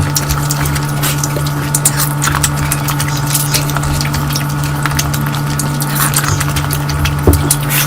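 Close-miked eating sounds: wet chewing, lip smacks and mouth clicks from someone eating curry, over a steady low electrical hum.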